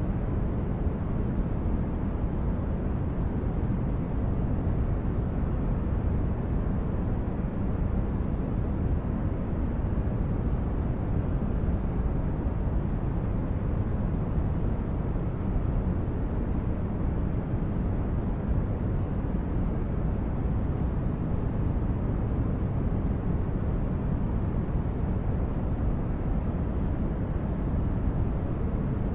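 Steady low rumbling noise of a sci-fi spaceship ambience, a constant engine-like drone weighted to the bass with no distinct events.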